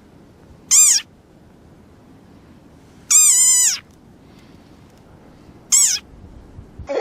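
An animal giving three high-pitched calls: a short one, then a longer one whose pitch wavers up and down, then another short one.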